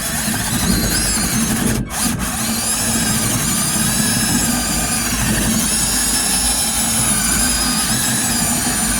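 Power sander running steadily on hardened body filler on a truck door panel, with a wavering high whine. It cuts out briefly about two seconds in, then runs on.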